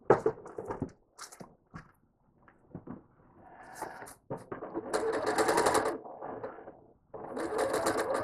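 Home sewing machine stitching fast in two runs of about a second and a half each, the second starting near the end, as it quilts with a ruler foot. Before that come scattered light clicks.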